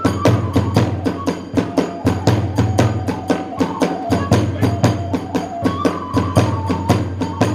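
Kagura accompaniment: drums and hand cymbals struck in a fast, even beat of about five or six strokes a second, with a flute playing a melody over it.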